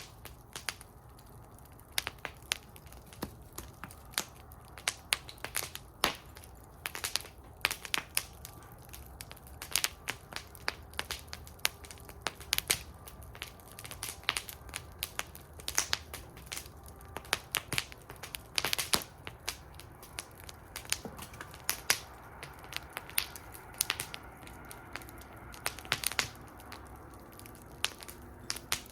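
Wood fire burning in a fire bowl, crackling and popping irregularly, with some louder sharp pops over a low steady rumble of the flames.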